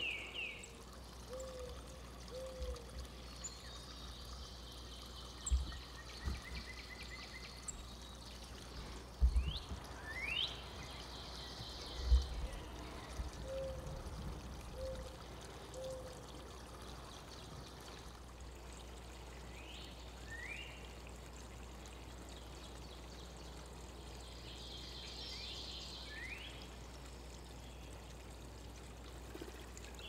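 Songbirds giving short, rising chirps now and then over a steady faint hiss, with a few dull low thumps in the first half.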